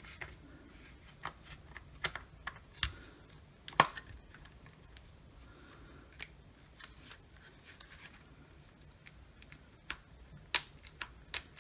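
Plastic parts of a cordless rotary tool's housing clicking and knocking as the battery holder and internals are seated back into the case: scattered sharp clicks, the loudest about four seconds in and a cluster near the end, with a quieter stretch between.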